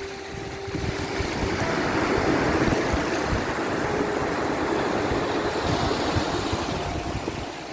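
Sea waves washing in on a shore: a steady rush of surf that swells up and then slowly eases off.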